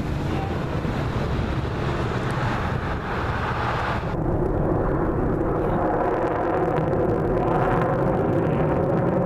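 Airplane engine droning as the aircraft passes. About four seconds in, the hiss thins out and a steady hum with several pitches comes through more strongly.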